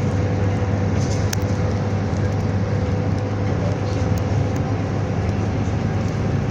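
Scania Enviro 300 single-deck bus's diesel engine and drivetrain heard from inside the bus, a steady low drone with a faint whine as it drives.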